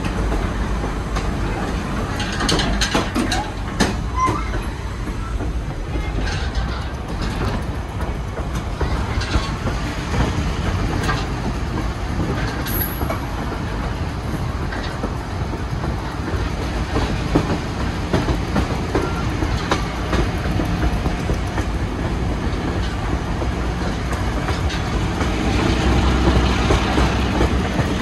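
Ride noise aboard a moving passenger train: a steady rumble of wheels on the track, with scattered clicks over the rail joints and a brief high squeal about halfway through. It grows louder near the end.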